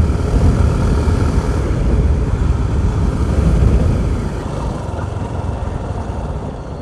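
Vehicle on the move: a steady low rumble of engine and road or wind noise, easing slightly after about four seconds.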